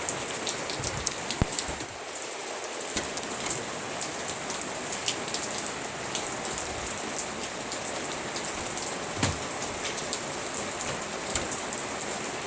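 Steady rain falling and pattering on hard surfaces, with many small sharp drop ticks and a couple of louder hits.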